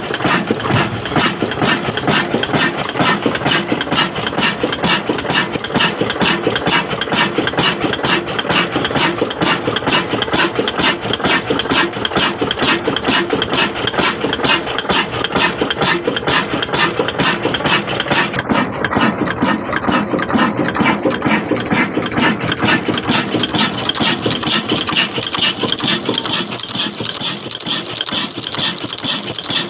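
Old black diesel engine, a single-cylinder stationary type, running steadily with rapid, even exhaust beats.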